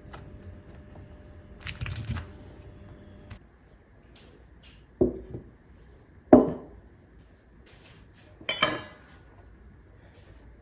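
Dishes and cutlery being handled: a few separate clinks and knocks of crockery and metal, the loudest about six seconds in.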